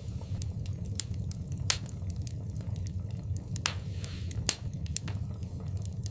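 Wood fire crackling in a fireplace: irregular sharp pops and snaps over a steady low rumble of burning. The loudest pops come about two seconds in and again about halfway through.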